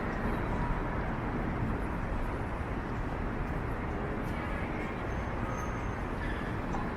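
Steady downtown street noise: a constant hum of traffic with no single sound standing out.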